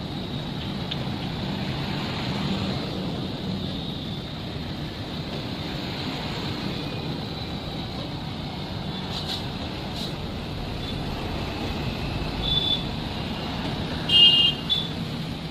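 Steady running noise of a moving train, an even rumble and rush. There are a couple of faint clicks, and near the end a short, louder high-pitched tone is the loudest thing.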